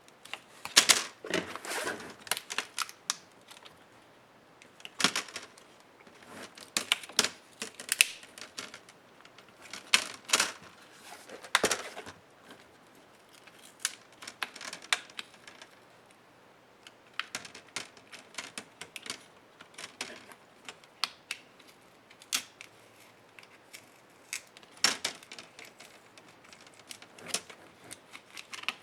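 Irregular clicks and taps of plastic and metal laptop parts and hand tools being handled during disassembly of an HP 15-DA laptop, in small clusters with short pauses between.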